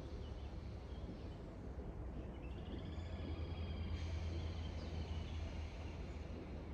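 Faint birds chirping and trilling in the background, mostly in the middle of the stretch, over a steady low hum.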